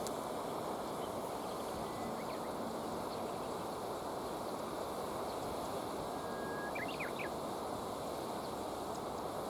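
River water running steadily, with a few faint short bird chirps about two seconds in and again around seven seconds in.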